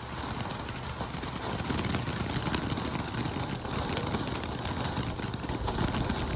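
Consumer firework fountain burning, a steady crackling hiss that swells up as it gets going.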